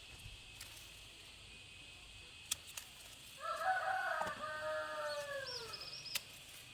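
A rooster crowing once, a call of about two and a half seconds that holds its pitch and then drops off at the end. A few sharp clicks come before and after it.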